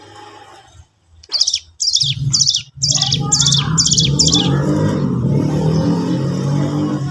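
Cigun bird song from a lure recording: a run of about seven quick, high notes, each falling sharply in pitch. A dense low hum sets in underneath about two seconds in and runs on after the notes stop.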